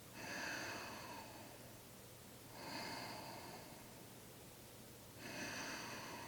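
A woman breathing during a held yoga pose: three slow, faint breaths, each about a second long, roughly two and a half seconds apart.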